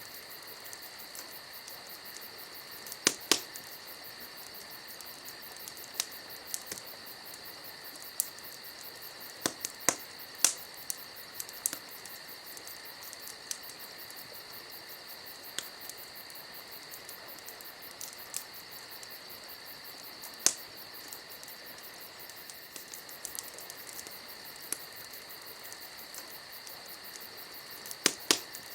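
Crickets chirring steadily, with a campfire crackling over them in sharp, irregular pops, a few in quick pairs.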